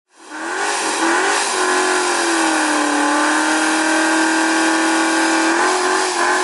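A car engine running at high revs, loud, its pitch wavering briefly at first and then held nearly steady.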